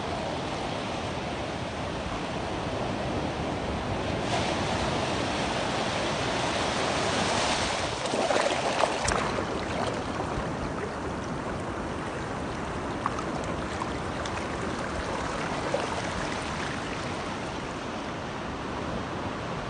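Ocean surf: a steady wash of waves on the shore, swelling to its loudest as a wave breaks about eight or nine seconds in, then easing back.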